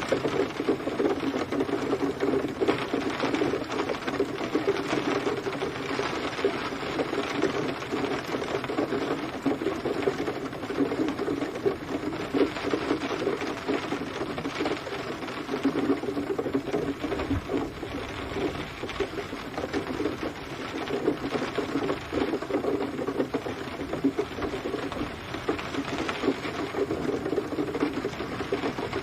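Steady rain falling, a dense, unbroken patter of countless drop impacts that holds at an even level throughout.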